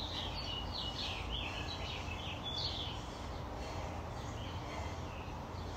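Small birds chirping, with short calls clustered in the first three seconds and thinning out after, over a steady low hum.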